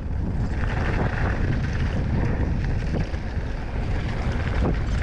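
Wind buffeting the microphone over the steady rumble of a mountain bike rolling fast down a dirt trail, with a few small knocks from the bike.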